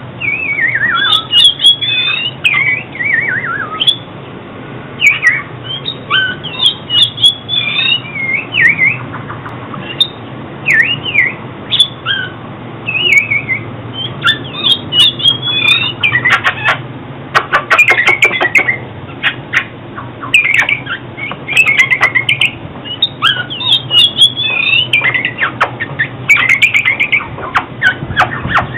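Oriental magpie-robin singing: a continuous run of varied, quickly changing whistled phrases that swoop up and down, with sharp clicking notes in the second half. A low steady hum runs underneath.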